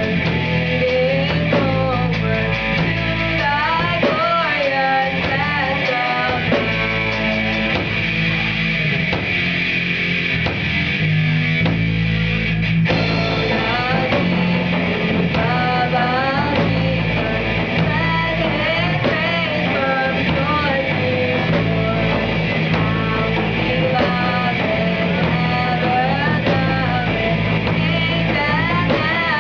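Rock band playing live with electric guitar, drums and a singer, loud and steady throughout.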